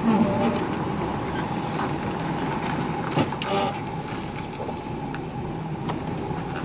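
Lorry's diesel engine running while the truck is manoeuvred round in a tight turn, with a short hiss about three seconds in.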